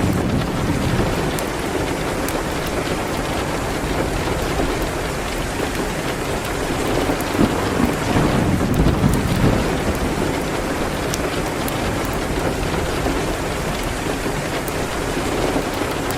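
Steady rain hitting a window, with a low rumble swelling about halfway through. Faint, scattered sharp crackles from a wood fire sound over the rain.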